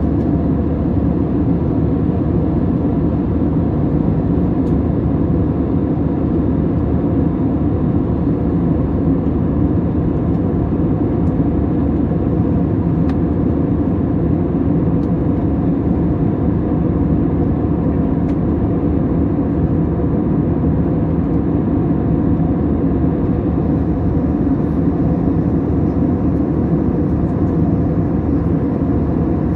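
Steady drone of an Airbus airliner cabin in flight: jet engine and airflow noise, low and even, with faint steady engine tones.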